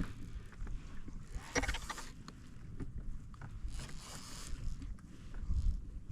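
Water splashing and lapping against a fishing kayak at sea, in irregular bursts, with a sharper splash about a second and a half in and a low rumbling near the end.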